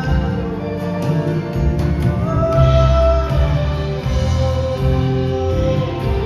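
Live band playing a slow, soft instrumental outro with guitar and held notes, no lead vocal.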